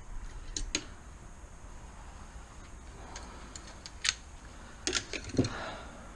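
A few sharp metallic clicks and clinks, spaced out over several seconds, with a small cluster about five seconds in: metal sockets being picked up and sorted from a socket set.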